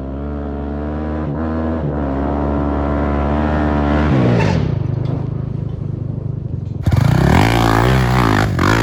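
Honda sport quad's single-cylinder four-stroke engine held at steady high revs, dropping off about four seconds in to a rough, pulsing low speed, then revved hard again near the end with the pitch rising and falling.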